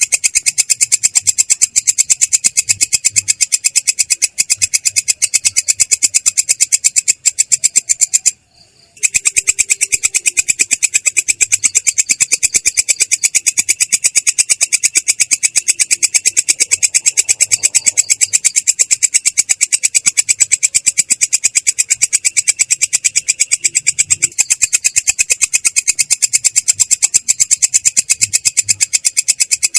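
Belalang kecek katydid singing a continuous roll: a loud, high, rasping stridulation made of very rapid, even pulses, broken once by a short pause about eight seconds in.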